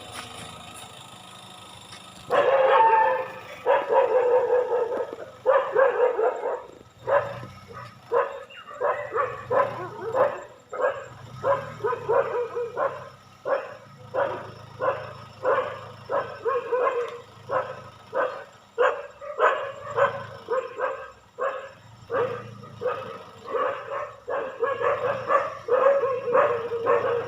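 A dog barking over and over, starting about two seconds in and going on at roughly one or two barks a second.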